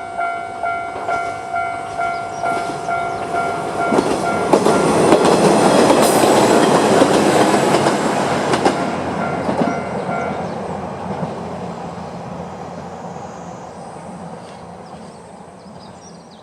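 A Japanese level-crossing alarm rings its electronic bell about twice a second while a two-car Aizu Railway AT-500 diesel railcar train passes over the crossing, its wheels clacking over the rail joints. The bell stops about ten seconds in and the train's running noise fades away.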